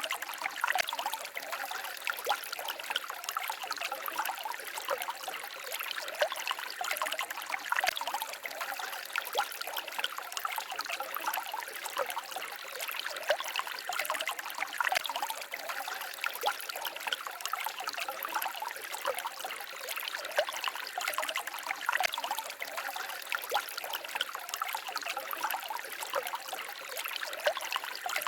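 Small forest stream babbling and trickling steadily, with many small splashes flickering through the flow.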